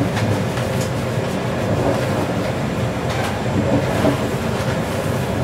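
Inside an E351 series limited express electric train running at speed: a steady rumble of wheels and running gear with a few short clicks from the rails.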